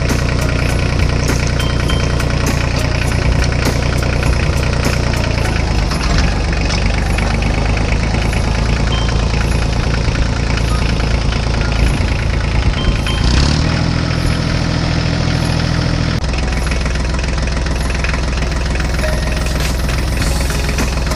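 Diesel tractor engine running steadily at a low idle-like throb, its note shifting a few times.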